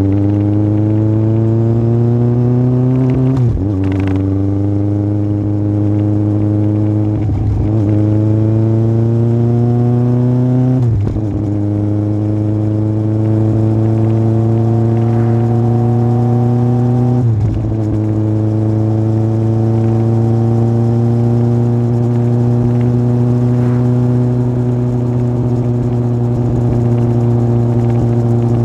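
Yamaha Fazer 1000's inline-four engine, fitted with a loud aftermarket MIVV exhaust, pulling hard through the gears. The pitch rises and drops sharply at four upshifts. After the last shift, about two-thirds in, it settles to a steady cruise.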